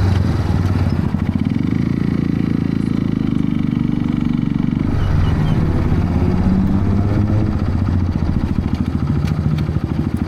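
Motorcycle engine running, a loud, fast pulsing note whose pitch changes about five seconds in.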